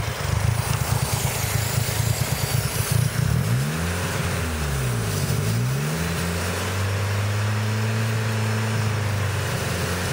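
Car engine running rough and uneven from a vacuum leak, the brake-booster vacuum line pulled off while SeaFoam is poured into it. Its pitch swings up and down about four seconds in, then it settles to a steady, even note.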